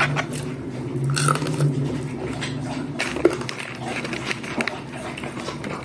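Crunchy chewing of crisp fried dried fish and anchovies, with scattered sharp clicks. A low steady hum runs under it for the first two seconds.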